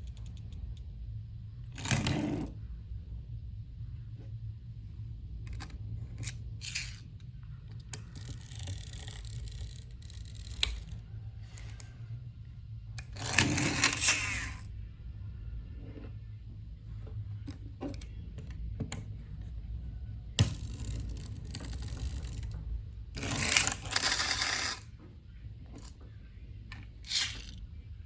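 Small hard plastic toys being handled on a hard surface: irregular scrapes, clicks and clatters, with a few longer scraping passes, over a steady low hum.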